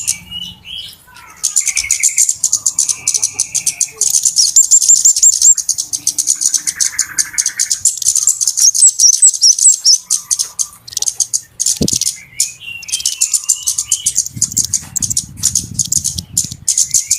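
Flowerpeckers (cabe-cabean) calling excitedly: dense, rapid, high-pitched ticking and chirping, broken by a short pause about a second in, used as a trapping lure.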